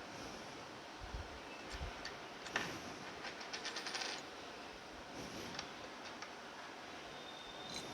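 Light metallic clinks and clicks of small metal parts and hand tools being handled: scattered clinks, the loudest about two and a half seconds in, then a quick run of ticks for about a second.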